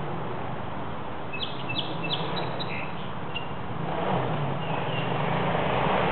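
Dirt bike engine running steadily at a distance, getting louder in the second half. A few short bird chirps come in about a second and a half in.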